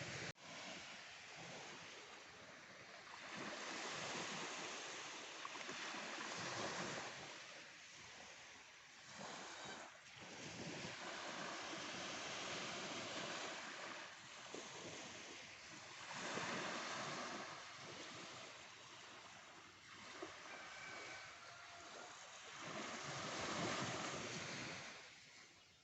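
Waves washing onto the beach, the surf swelling and falling away every few seconds.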